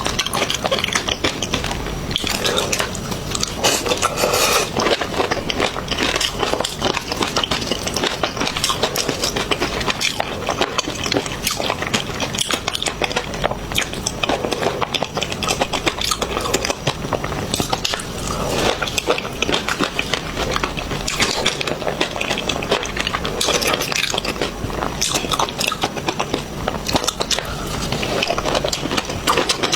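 People biting into and chewing seafood, with a dense, continuous crackle of crunching and clicking.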